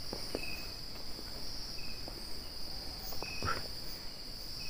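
Night chorus of crickets: a steady, high-pitched trill. A few faint short sounds and light knocks are heard over it.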